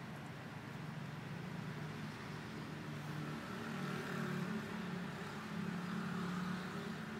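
Toyota Avanza engine running, swelling in loudness twice, about four and six seconds in.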